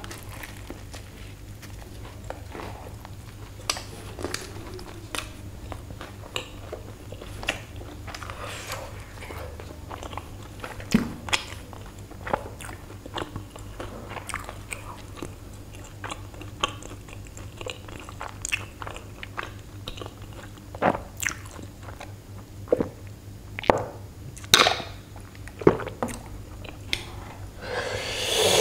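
Close-miked biting and chewing of a burger: irregular wet mouth clicks and crunches, a few of them sharper and louder about 11, 21 and 24 to 26 seconds in.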